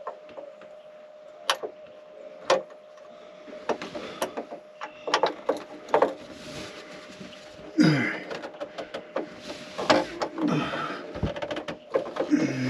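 Wrench and steel bolt clinking and knocking against metal in scattered sharp clicks as a bolt is worked into a tight spot, the bolt held on the wrench with tape. A faint steady hum runs underneath.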